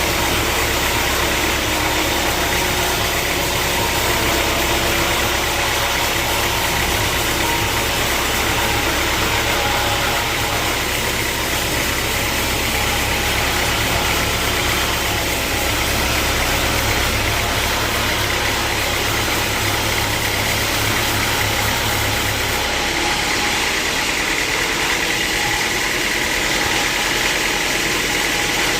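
Sawmill machinery running steadily: a loud, even hiss over a low hum. About 23 seconds in, the low hum drops away while the hiss carries on.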